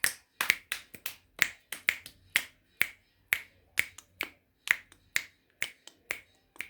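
Hands clapping in a steady rhythm, about two sharp claps a second.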